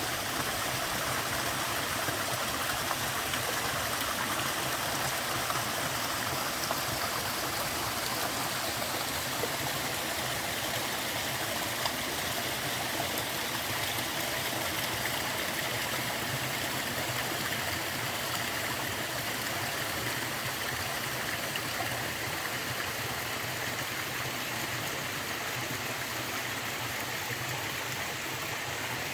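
Small waterfall pouring steadily with a soft, even rush of falling and splashing water; its flow is on the low side.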